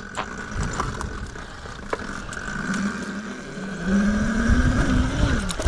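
Mini bike's small engine running, its revs climbing about halfway through and easing off again near the end.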